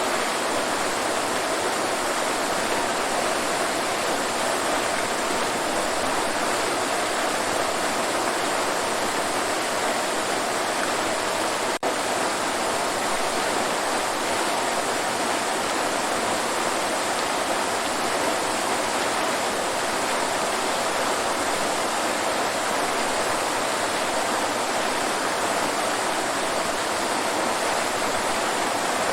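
Waterfall: a steady, even rush of falling, splashing water, with a momentary dip about twelve seconds in.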